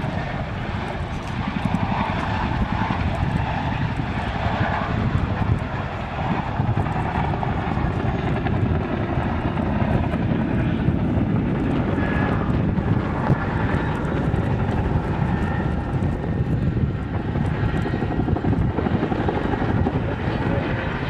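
An aircraft in a flying display, its engine noise a steady, even drone with faint steady tones through it.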